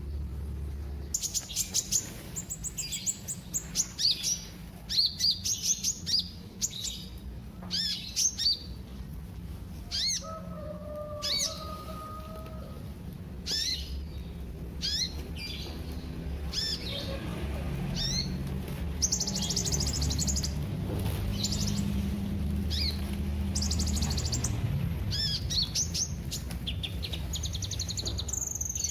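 Sunbird (Indonesian 'kolibri') singing: a long series of quick, high, thin chirps, down-sweeping notes and fast buzzy trills, over a steady low background hum.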